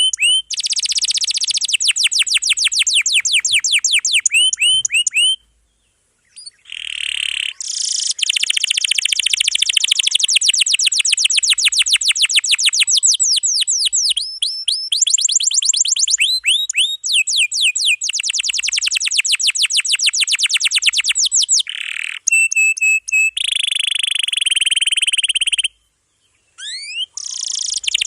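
Domestic canary singing long rolls: fast trills of repeated sweeping notes in a dense, unbroken song. The song breaks off twice, briefly, about a fifth of the way in and again near the end.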